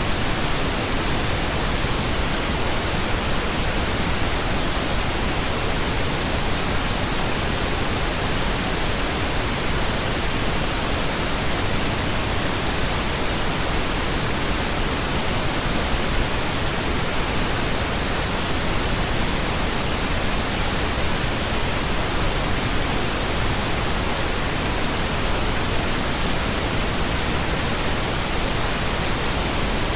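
Steady pink noise: an even, unchanging hiss spread across all pitches, with no tones, events or variation.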